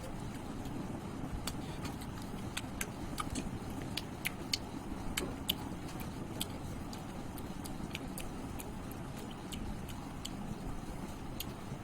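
A person eating curry and rice: irregular sharp wet clicks and smacks of chewing and handling food, over a steady low rumble.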